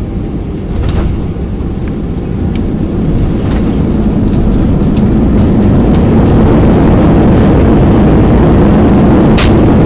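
Cabin noise aboard an Airbus A319 during landing: a loud, steady rumble that grows louder from about three seconds in and then holds, with a few light clicks and a sharp rattle near the end.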